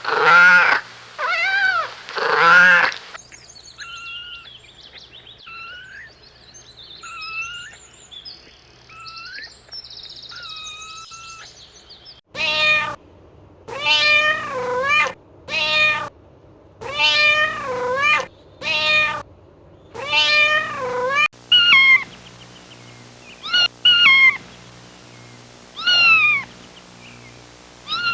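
Kittens meowing again and again, with loud, drawn-out meows that alternate with quieter, higher-pitched mews. The sound cuts in and out abruptly between spliced clips.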